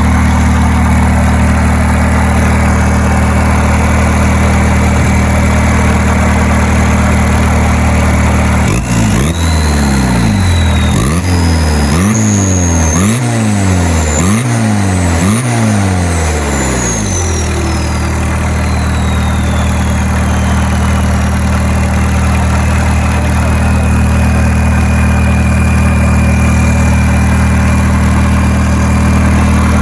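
Volkswagen 1.6-litre turbodiesel engine running steadily, then revved six or seven times in quick succession about nine seconds in. A high turbo whine climbs with each rev and slowly winds down after the revving stops.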